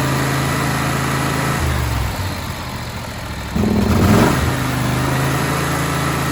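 Kawasaki FH721V V-twin engine of a John Deere X500 garden tractor running. It drops to a lower speed about a second and a half in, then revs back up about three and a half seconds in and holds steady.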